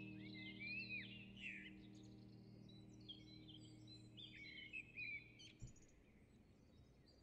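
Birds chirping and calling in quick, varied twitters, over a soft held music chord that stops about five and a half seconds in.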